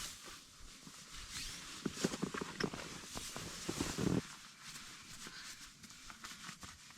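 Rustling and handling noises from fabric and gear being moved about, with a few sharp clicks about two seconds in and a denser burst of rustling that stops abruptly about four seconds in.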